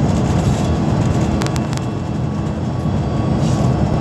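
Steady low rumble of a moving vehicle, with a few brief clicks about one and a half seconds in.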